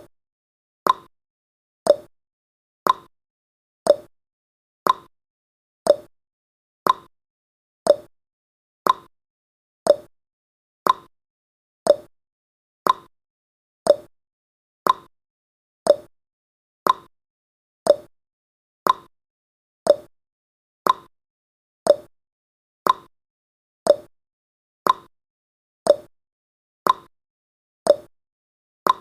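Clock-ticking sound effect of a countdown timer: one sharp tick each second, alternating between a higher and a lower click like a tick-tock.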